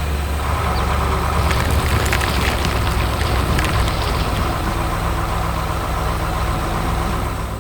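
A heavy vehicle engine idling with a steady low hum, with some light clatter through the middle.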